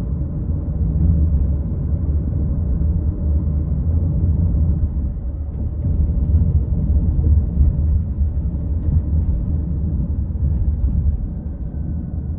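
Steady low rumble of a car driving along the road: engine and tyre noise. It eases off slightly near the end.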